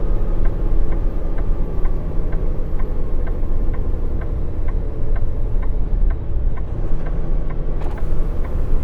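Inside a semi-truck cab, the diesel engine runs with a steady low drone while the turn signal clicks evenly, about two and a half times a second. There is a single short knock near the end.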